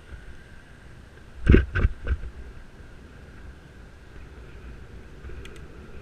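Wind and road rumble from a bicycle ride picked up on a loosely mounted helmet camera, with three heavy thumps in quick succession about a second and a half in, then a couple of faint ticks near the end.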